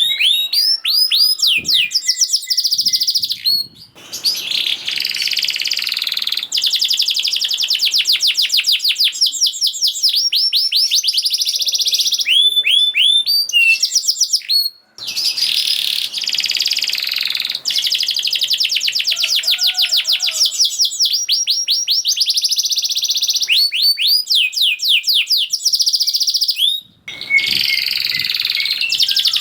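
Domestic canary singing a fast, tightly packed song: long runs of rapid trills made of quick rising notes repeated many times a second, with a few brief pauses between phrases.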